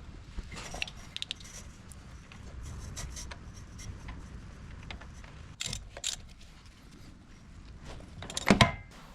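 Scattered light clinks and scrapes of small hard objects being handled, with a louder clatter about eight and a half seconds in.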